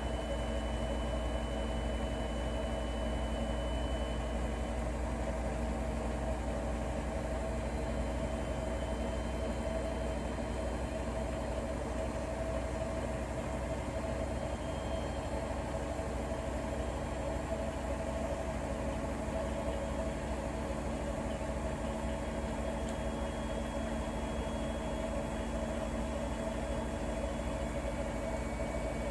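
Bosch Serie 4 front-loading washing machine running mid-cycle: a steady machine hum with a constant low drone and no pauses or changes in pitch.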